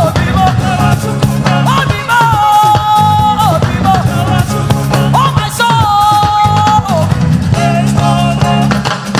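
Live gospel band music with a steady beat, heavy bass and drums, and long held melody notes in two-part harmony. Each phrase scoops up into the note, and the phrase comes three times.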